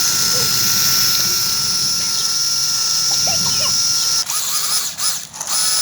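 Tractor engine running steadily under load with a constant high-pitched whine, cut short by a brief break in the sound about four seconds in.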